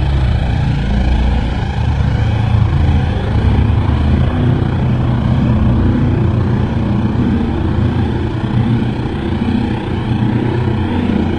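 A loud, continuous low rumble with a faint droning hum above it: a purported unexplained 'strange sound' in the sky.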